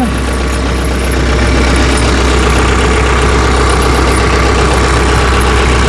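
Tractor engine idling steadily with a constant low hum.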